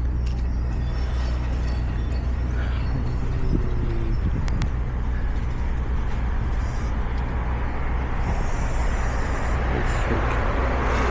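Steady low engine hum of a running motor vehicle, with a rushing hiss that grows louder near the end.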